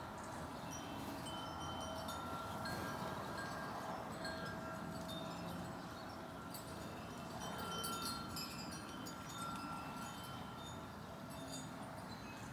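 Wind chimes ringing gently, several held tones sounding and overlapping as they fade slowly.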